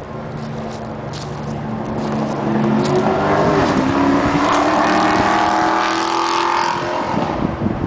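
A vehicle's engine running, then accelerating from about three seconds in: the pitch rises and it grows louder before fading away near the end.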